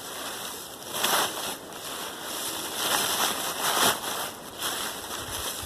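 Dry fallen leaves rustling in several uneven bursts as they are gathered up by hand for bagging.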